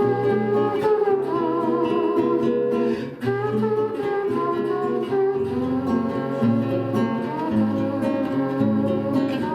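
Acoustic guitar playing an instrumental passage of plucked and strummed chords.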